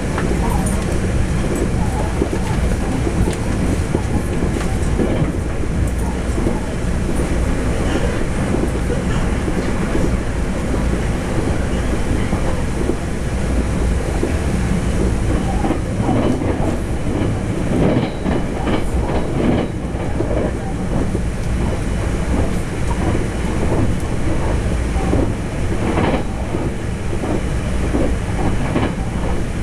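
Taroko Express TEMU1000 tilting electric multiple unit running at speed, heard inside the passenger car: a steady rumble of wheels on rail, with clusters of clicks as the wheels pass over the track, most around two thirds of the way through.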